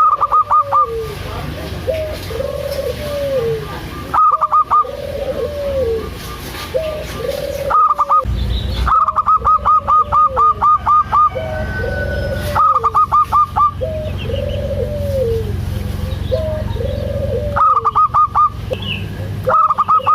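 Zebra doves (perkutut) cooing: soft arching coos repeat about once a second, broken every few seconds by quick runs of short, higher staccato notes.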